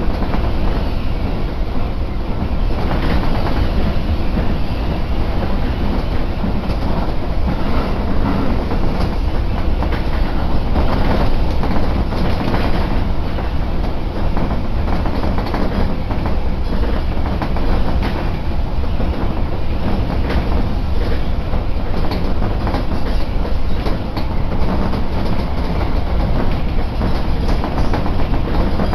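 Tobu Isesaki Line electric train running, heard from inside the passenger car: a steady, loud rumble of wheels on rails with frequent small clicks and knocks of the track.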